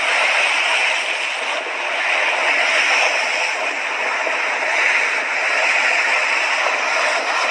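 Mediterranean sea waves breaking and washing on the beach, a steady rushing surf that gently swells and eases.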